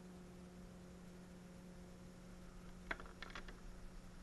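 Faint steady hum, with a short cluster of small clicks about three seconds in.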